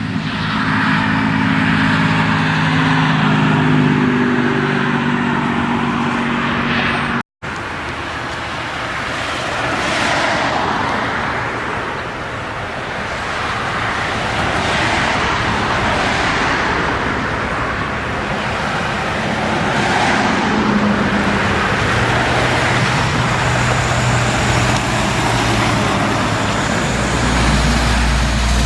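Road traffic with trucks and cars passing, their tyre and engine noise swelling and fading several times. A heavy truck's engine is heard close at the start and again near the end. The sound breaks off briefly about seven seconds in.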